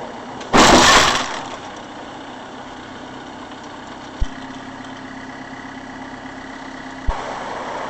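A loud, sudden noisy burst lasting under a second, then steady vehicle engine and road noise with a low hum, broken by two sharp clicks.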